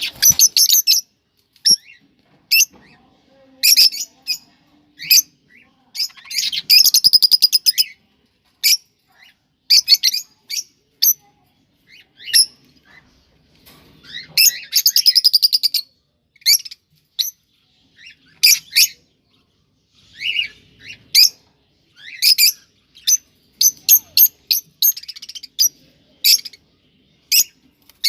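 Cockatiels chirping and warbling: short high whistled calls separated by pauses, with two longer runs of fast repeated notes about a quarter and half way through.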